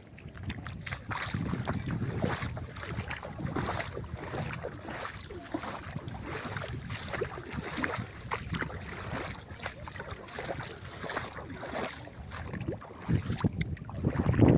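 Wind buffeting the microphone over water splashing and lapping, a steady low rumble with many irregular splashes.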